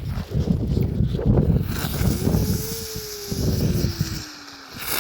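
Small spinning fireworks burning with a hiss and one whistling tone that slowly falls in pitch, over gusts of wind on the microphone.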